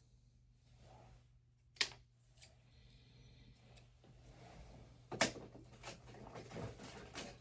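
Small plastic toy truck parts being handled on a tabletop: a sharp click, then a louder click a few seconds later followed by about two seconds of fast small clicking and rustling.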